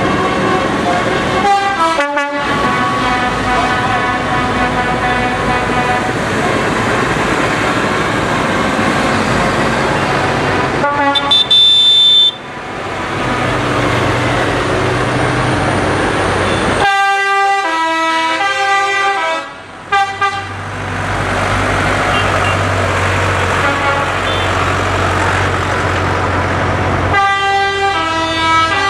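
Parade tractors rolling past with horns tooting, several pitched horn tones sounding together and at times stepping up and down in pitch. The sound breaks off abruptly a few times.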